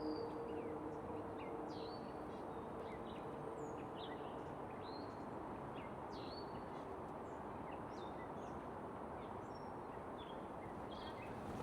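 Steady rush of flowing creek water with small birds chirping over it, many short high chirps scattered throughout.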